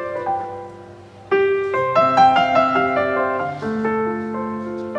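Background piano music: a gentle melody of held notes, fading to a brief lull about a second in before the playing picks up again.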